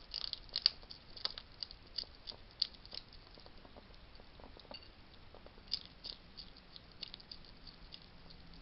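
Wild hedgehog crunching dry food: irregular sharp crunches and clicks, busiest in the first three seconds and again around six to seven seconds in.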